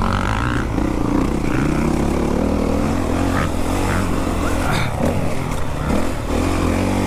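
Four-stroke motocross dirt bike engine under riding load, its pitch rising and falling as the throttle is opened and rolled off, with a few short knocks.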